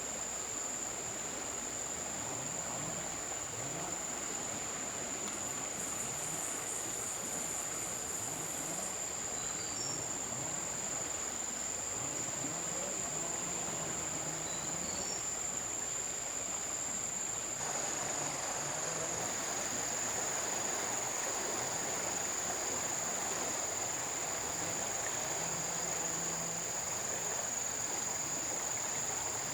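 A steady high-pitched insect trill held unbroken over the even rush of flowing river water. The water sound shifts abruptly a little past halfway.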